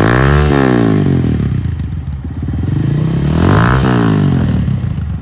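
Honda Grom 125's single-cylinder engine with an aftermarket Yoshimura exhaust, revved twice from idle, the pitch climbing and dropping back each time.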